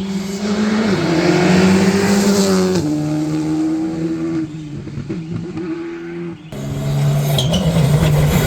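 Rally car engine running hard, its pitch stepping down and rising again a few times. About six and a half seconds in, an abrupt cut to another rally car's engine.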